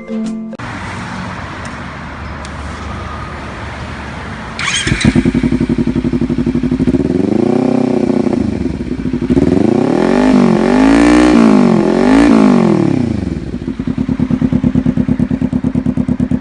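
Kawasaki Ninja 300 parallel-twin running through an aftermarket black-can slip-on exhaust: it starts up about five seconds in and idles, is revved once, then given three quick revs in a row, and drops back to a steady, pulsing idle.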